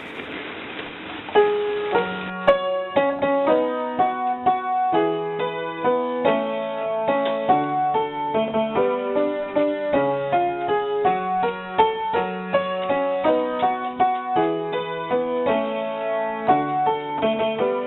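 Piano music with a steady rhythm of chords and a bass line, coming in about a second and a half in after a brief steady hiss.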